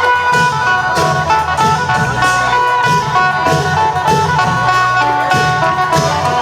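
Isan phin, a plucked lute, playing a fast melody over klong yao long drums and percussion that keep a steady beat.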